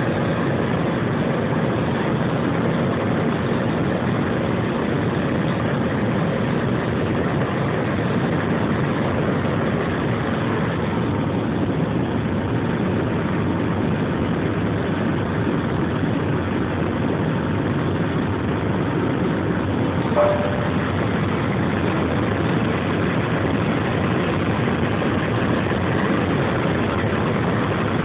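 Steady engine and airflow roar heard inside the cabin of a jet airliner climbing after takeoff. A brief click and short tone sound about two-thirds of the way through.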